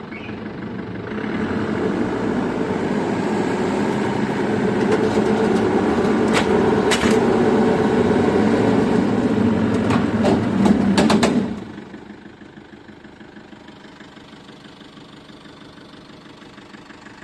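A heavy vehicle's engine runs loud for about ten seconds, with a few sharp clicks or knocks in its second half. It then drops suddenly to a quieter, steady idle.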